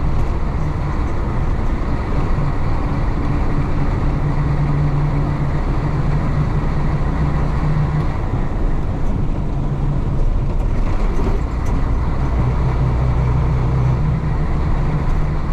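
The 1966 Isuzu BXD30 bonnet bus's DA640 diesel engine running steadily while the bus is under way, with road noise. The engine note eases a little past the middle and then picks up again.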